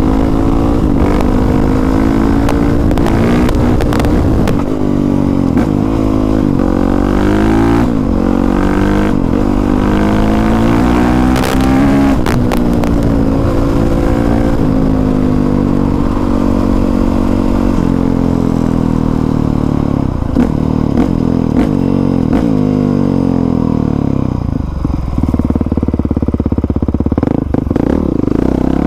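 Dirt bike engine under way, revving up and easing off over and over so the pitch keeps rising and falling, with a few sharp knocks and clatter.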